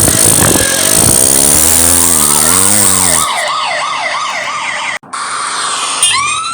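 Police car siren sound effect: a fast warbling wail, about three rises a second, which cuts out briefly about five seconds in. A new wail then starts near the end, rising in pitch. A noisy mix with a wobbling low tone comes before the siren.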